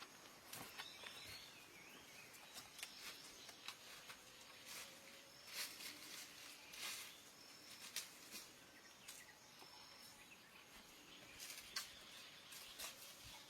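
Faint outdoor ambience: scattered soft clicks and rustles, with faint high chirps in the background.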